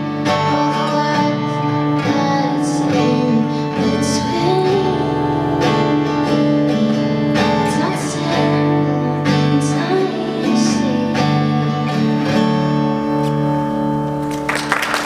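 Live pop song ending: female vocals over guitar, with sustained notes. Audience applause breaks out near the end.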